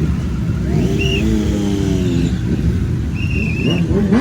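Several big motorcycle engines running together in a steady low rumble, with one engine revving up and down about a second in.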